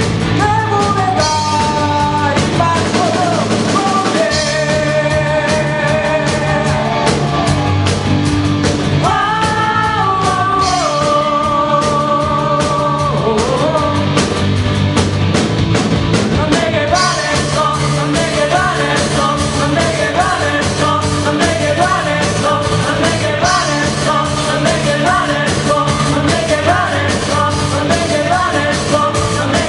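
Amateur band playing rock music live: a singer holding long notes over drums and band backing, loud and steady.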